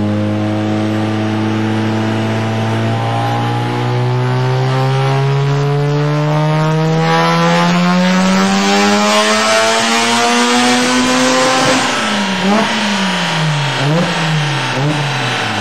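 Mazda RX-7's rotary engine making a full-load dyno pull: its pitch climbs steadily for about twelve seconds. Then the revs fall away in a few quick dips and rises.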